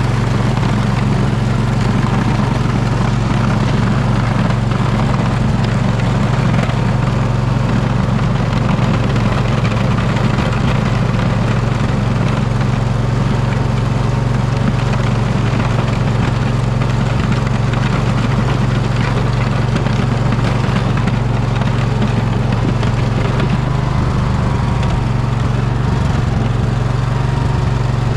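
Poulan riding mower's engine running steadily while plowing snow, its note shifting slightly about 23 seconds in.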